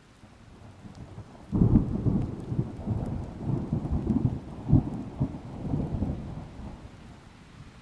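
Thunder: a low rumble builds, breaks into a loud crackling peal about one and a half seconds in, and rolls on for several seconds before fading, over light rain.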